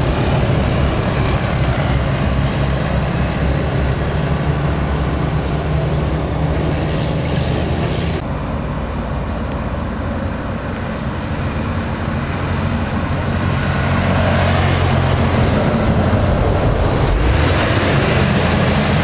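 Heavy truck's diesel engine running under load: a steady low drone that eases a little about halfway through and grows louder again over the last few seconds.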